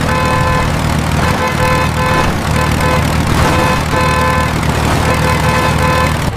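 Cartoon tractor sound effect: a steady low engine rumble with a high beeping tone that repeats about once a second.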